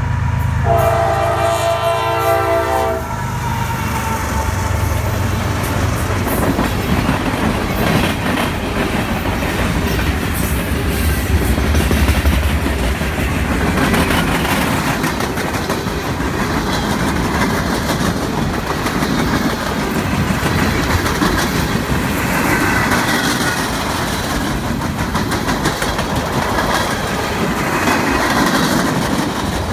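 CSX GE ES44AH diesel locomotive passing close by, its horn sounding a chord for about the first three seconds over the deep rumble of its GEVO V12 diesel engine. The horn then stops and the freight cars roll past with steady wheel noise and clickety-clack on the rail joints.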